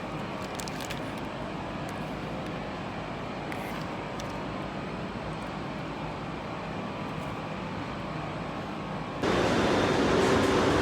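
Steady rumbling background noise with no distinct events, stepping up suddenly to a louder hiss with a faint hum near the end.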